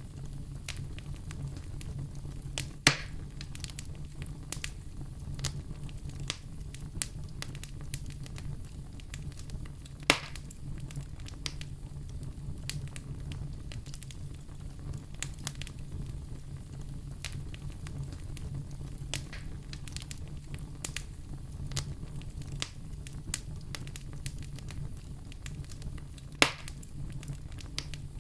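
A fireplace fire crackling, with many small ticks over a steady low rumble. Three sharper, louder pops come about three seconds in, about ten seconds in, and near the end.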